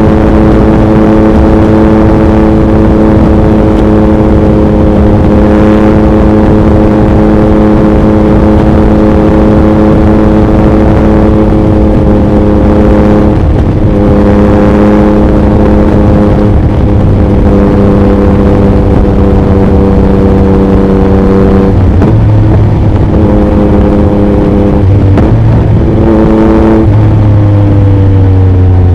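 2021 Yamaha MT-09's inline-three engine through an Akrapovic racing exhaust, running at a steady pitch at highway speed, with a few brief breaks in the second half and a falling pitch near the end as the bike slows. Heavy wind noise on the microphone underneath.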